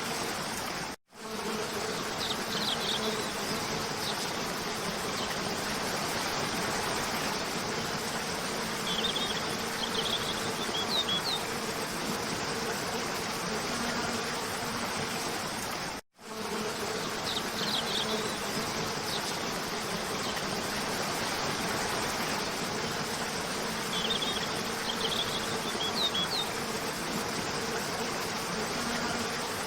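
Waterfall rushing steadily under a steady low hum, with short bursts of bird chirps every few seconds. The sound cuts out briefly twice, about a second in and again about halfway, where the recording loops.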